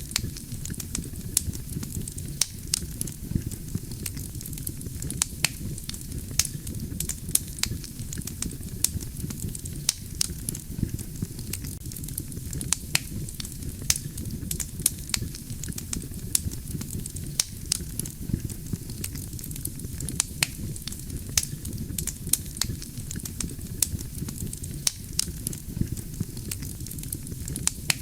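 Wood campfire burning: a steady low rumble of flames with dense, irregular sharp crackles and pops from the burning logs, several a second.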